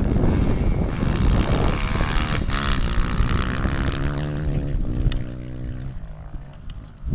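Racing off-road engine passing by, its note clear for a few seconds before fading away near the end, under heavy wind noise on the microphone at the start.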